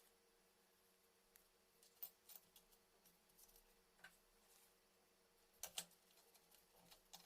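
Near silence with a faint steady hum and a few short, faint clicks and taps, a pair of them close together near the end.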